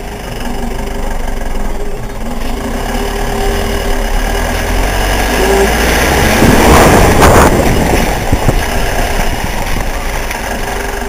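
Motorcycle engine running, with a louder rush of noise that swells and fades about six to eight seconds in.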